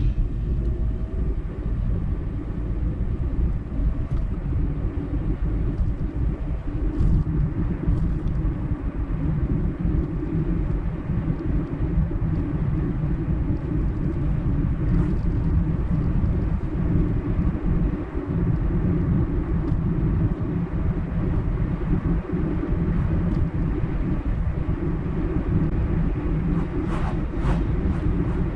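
Car driving along a highway: a steady low rumble of road and engine noise, with a few faint clicks near the end.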